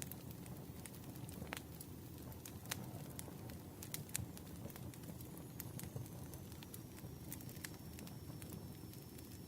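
Campfire burning: a steady low rumble of flames with irregular sharp pops and crackles of burning wood.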